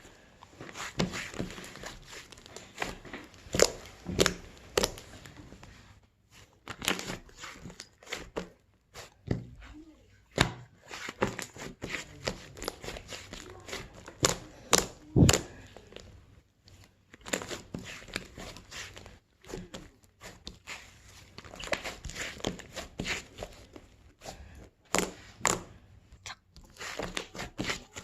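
Hands working a fluffy slime: irregular squishing, with crinkly crackles and sharp clicking pops at uneven intervals and a few short pauses.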